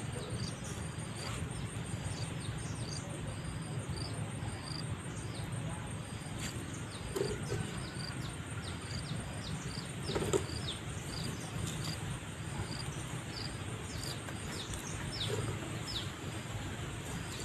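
Outdoor ambience of insects trilling steadily at a high pitch, with short falling chirps repeating throughout, over a low steady rumble. A few faint clicks, the clearest about ten seconds in.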